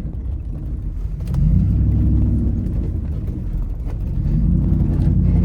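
Dodge Ram pickup's Hemi V8 heard from inside the cab while driving off-road. It picks up revs about a second in, eases off, then pulls up again near the end, with a few faint knocks.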